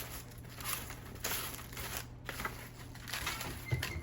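Several short rustling, crinkling noises of kitchen handling, over a steady low hum.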